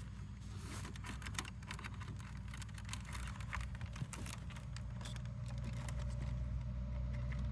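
Small irregular plastic clicks and rattles of wiring connectors being worked loose from a washing machine's control board, over a steady low hum that grows slightly louder near the end.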